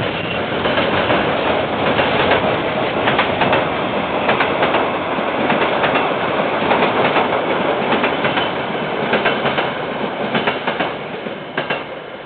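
Freight train wagons rolling past, their wheels clacking repeatedly over the rail joints. The noise fades toward the end as the last wagons go by.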